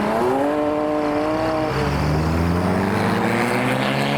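Car engine pulling away, its note rising in pitch and then holding steady; about halfway through, a second, lower engine note climbs.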